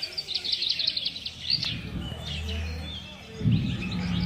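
Small birds chirping in quick repeated notes, with a low thump about three and a half seconds in.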